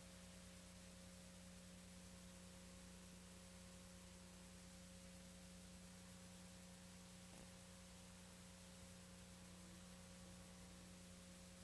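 Near silence: a faint steady hum and hiss from the VHS tape's otherwise empty soundtrack.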